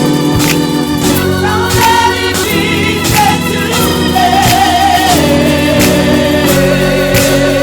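Live gospel church band playing: organ chords and a drum kit keeping a steady beat, with singing over it; from about halfway through a voice holds one long wavering note.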